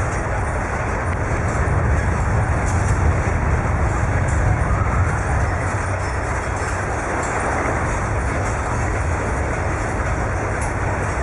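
Steady deep rumbling noise of an earthquake shaking a building, heard from inside.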